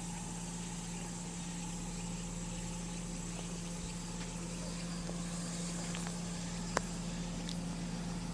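A vehicle engine idling with a steady low hum. There is a single sharp click about seven seconds in.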